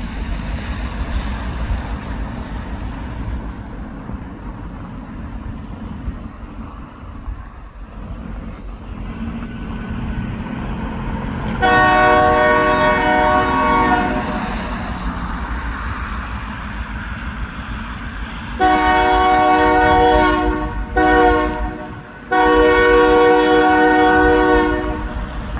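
Diesel freight locomotive's multi-note air horn sounding four blasts (long, long, short, long), the grade-crossing signal, over a steady low rumble of the idling train. The first long blast comes about halfway through, the other three together near the end.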